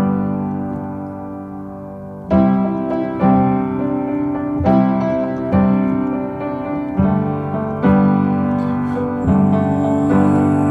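Background music: a piano or electric piano playing sustained chords, struck about once a second, in an instrumental break of a song.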